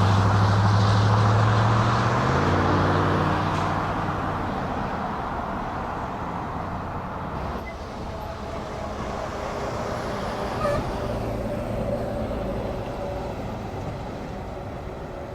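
Boeing 777-200LR's twin GE90 jet engines running at taxi power, a steady rumble with low hum tones, slowly fading as the airliner taxis away.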